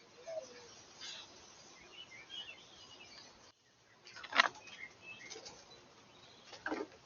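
Small birds chirping now and then over faint outdoor background noise, with a few brief sharp sounds, the loudest about four and a half seconds in and another near the end. The sound drops out for a moment about halfway through.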